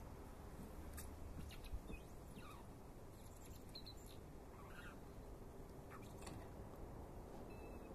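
Faint garden birdsong: scattered short chirps and whistles, a few every couple of seconds, over a low rumble.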